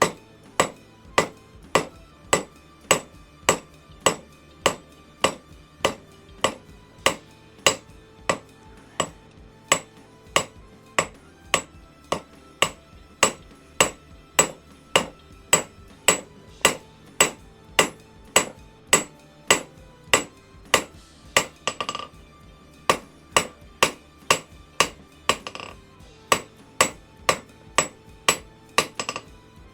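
Hand hammer striking hot round bar on an anvil in a steady rhythm of about two blows a second, each blow ringing, with a couple of short pauses: drawing out and tapering the bar.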